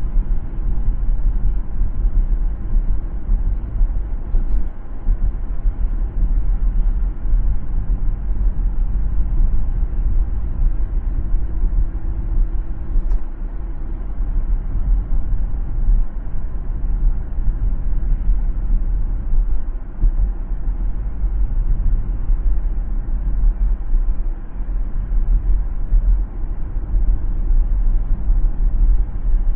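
A car driving on a city road: a steady low rumble of tyres and engine.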